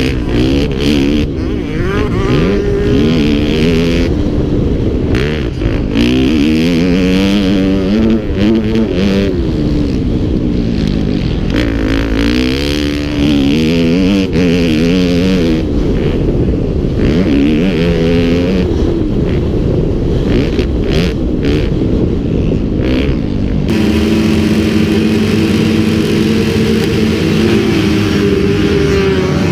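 Motocross bike engine running hard, its pitch rising and falling again and again as it revs up and drops back. About 24 seconds in it switches abruptly to a steady, even engine note.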